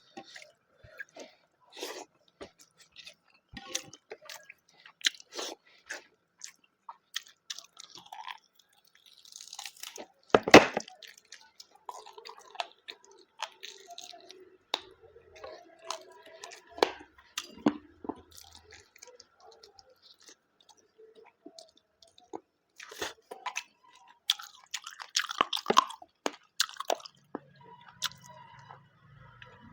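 Close-miked eating of rice, mutton curry and salad: irregular chewing and mouth clicks with occasional crunchy bites. The loudest bite comes about ten seconds in, and there is a busier spell of chewing past the twenty-second mark.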